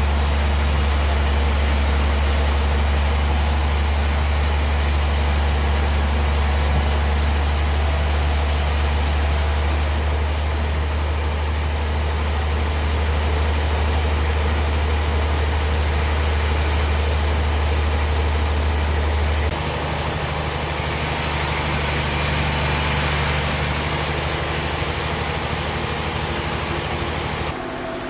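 Bandsaw sawmill machinery running steadily: a loud low motor hum under a broad rushing noise. About two-thirds of the way through, the hum shifts higher and weaker, and the level drops near the end.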